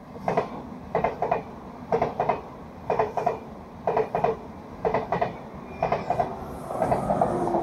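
ICE high-speed train passing close by: its wheels knock over the track in quick pairs about once a second, a clickety-clack over a running rumble. The rumble grows louder near the end.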